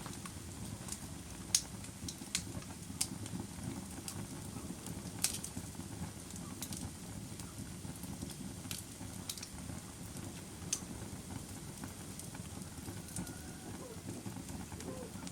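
Wood fire burning, a steady low rumble broken by irregular sharp crackles and pops.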